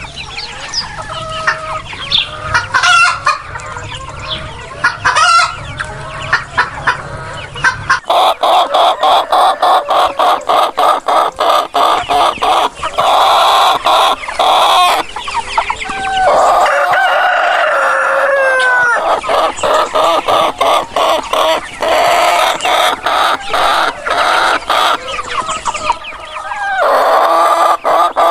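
Chickens clucking rapidly and steadily, with roosters crowing over them. The sound changes abruptly about eight seconds in and again near the end, where one recording gives way to the next.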